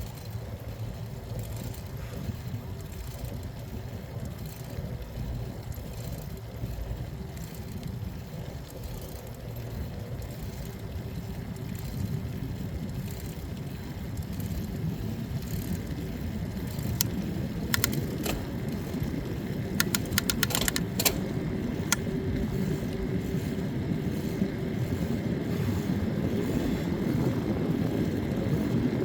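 Steady low rumble of riding noise, wind and road, growing louder past the middle, with a short run of sharp clicks or rattles about two-thirds of the way through.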